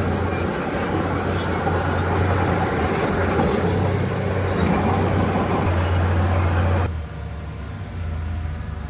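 Heavy diesel earthmoving machinery running and working, a loud low engine drone with scattered sharp ticks. About seven seconds in it drops abruptly to a quieter, steadier engine hum.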